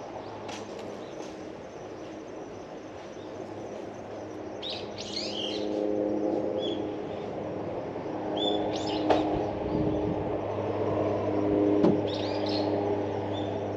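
Small birds chirping in short bursts three times. Under them is a steady low engine hum, which grows louder about halfway through.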